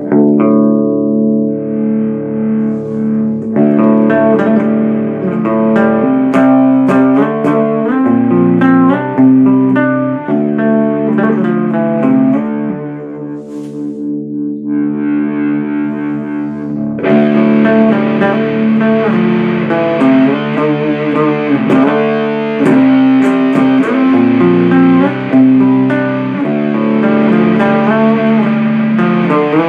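Electric guitar playing riffs through the Supercoolpedals 77 Fuzz Blender fuzz pedal and an Orange Super Crush 100 amplifier. The tone is fairly dark at first, dips briefly about thirteen seconds in, and turns much brighter and more distorted about seventeen seconds in.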